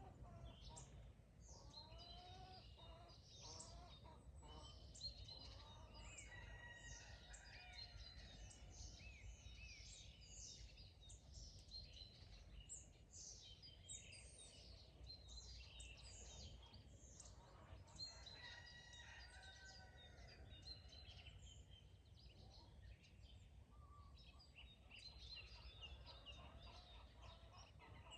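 Many songbirds chirping and singing in overlapping short calls, with chickens calling now and then underneath. Everything is faint, over a steady low rumble of outdoor background noise.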